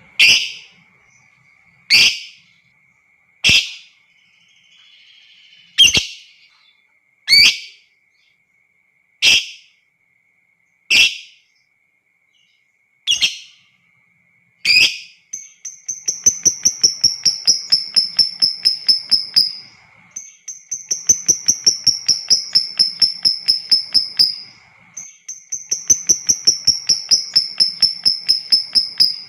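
Lovebird calling: about nine short, sharp shrieks spaced a second and a half to two seconds apart, then, from about halfway, long rapid chattering trills (the 'ngekek'), three of about four seconds each with short breaks between.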